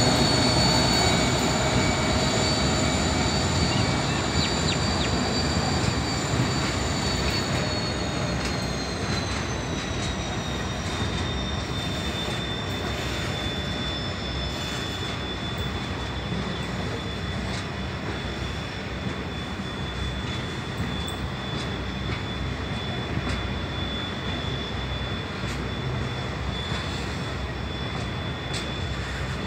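A coal train rolls past behind a TT-class diesel locomotive, then a long line of coal hopper wagons: a steady rumble of wheels on rail with a high, steady squeal over it. The squeal dips in pitch about eight to twelve seconds in, and the whole sound fades slowly.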